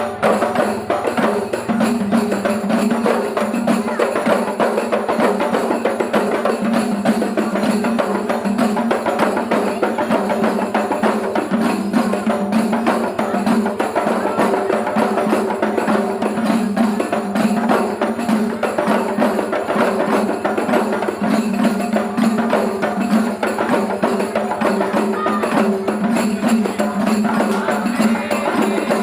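Rudad procession music: hand-beaten frame drums played in a fast, dense, unbroken rhythm over a steady held tone.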